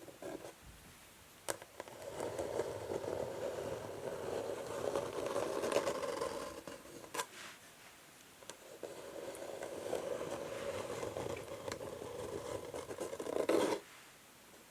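Natural fingernails scratching slowly across an old wooden chess board in two long passages, each lasting several seconds, with a single sharp tap before each.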